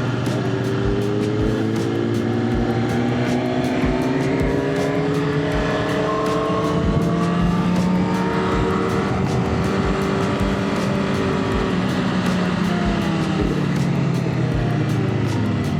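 Motorcycle engine running at speed under a rush of wind noise, its pitch slowly climbing through the middle and dropping near the end.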